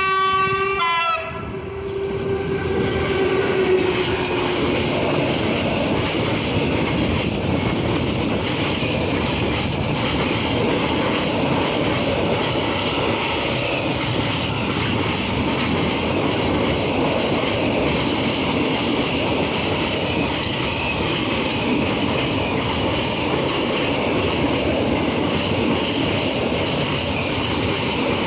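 An electric locomotive's horn ends about a second in. Then a long freight train of open wagons rolls steadily past close by, with a regular clatter of wheels over the rail joints.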